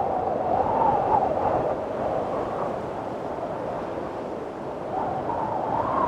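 Strong wind blowing in gusts, with a howling whistle that rises in pitch and loudness as each gust builds, once in the first couple of seconds and again near the end.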